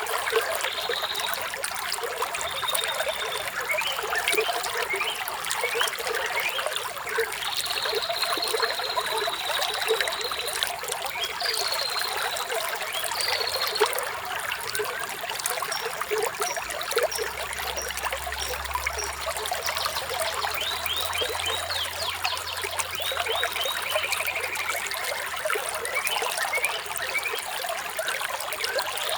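A small stream trickling and splashing steadily, with birds chirping and whistling over it at intervals: short high notes, one longer held whistle, and a falling trill near the end.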